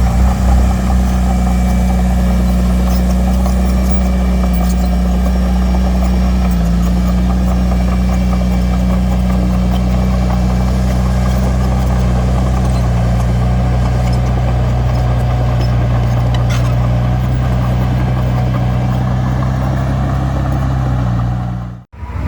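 Heavy diesel engine of earthmoving equipment running steadily under load, its engine note shifting a little about halfway through. The sound cuts out abruptly just before the end.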